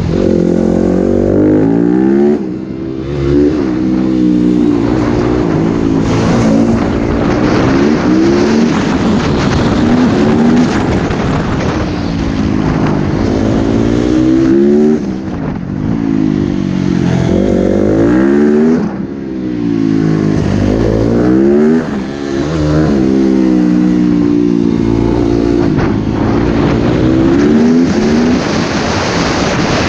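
Motocross bike engine revving hard, its pitch climbing and falling back with each gear change as it runs around a track, with the throttle shut off briefly about four times.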